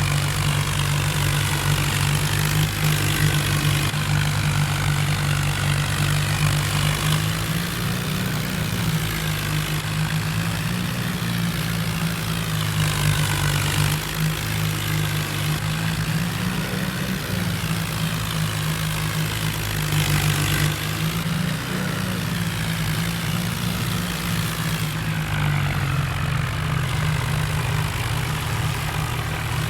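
John Deere tractor engine running steadily, its speed rising and falling slightly a few times.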